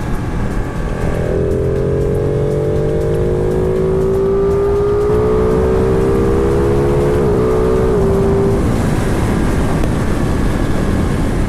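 Motorcycle engine accelerating on the road, its note rising slowly for about seven seconds with a brief wobble near the end, then dropping away under heavy wind noise on the microphone.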